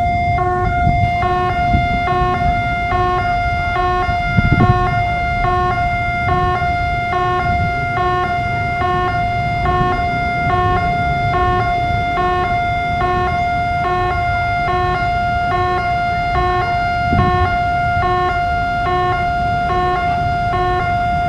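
Railway level-crossing warning alarm sounding continuously as a train approaches: a steady electronic tone with a regularly repeating ding-ding pattern layered over it, above a low rumble of traffic.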